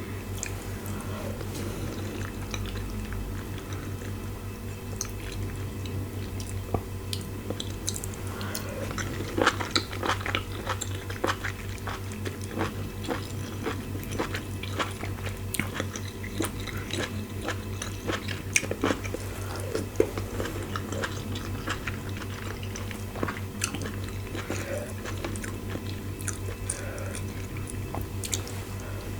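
Close-up eating sounds: chewing and biting, with wet mouth smacks and squishes, a person eating fufu and soupy assorted meat by hand. The clicks and smacks come thickest in the middle stretch, over a steady low hum.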